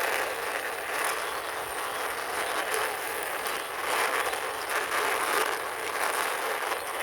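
Small toy ambulance pushed along by hand, its plastic wheels rolling and scraping steadily across the ground with an uneven, fluctuating rush.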